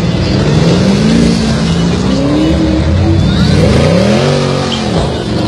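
A performance vehicle's engine revving and accelerating, its pitch climbing in repeated rises, then one last rise about four seconds in that falls away near the end.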